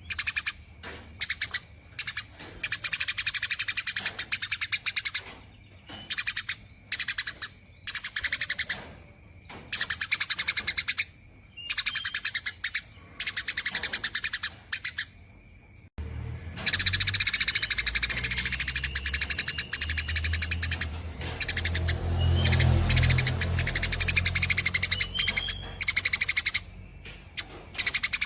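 Eurasian tree sparrow giving long, rapid chattering runs in bursts of one to a few seconds with short pauses between. About halfway through a low rumble joins underneath, and the chatter becomes almost continuous.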